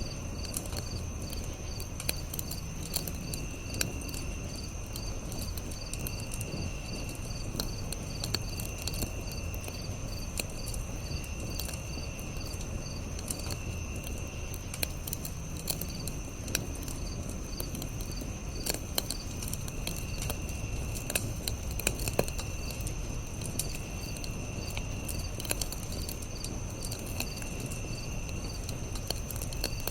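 Campfire crackling with scattered sharp pops, under crickets chirping: a continuous high trill and shorter trills that repeat every second or two.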